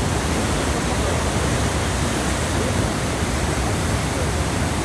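Waterfall: falling water rushing in a loud, steady, unbroken hiss that spreads evenly from deep to high pitches.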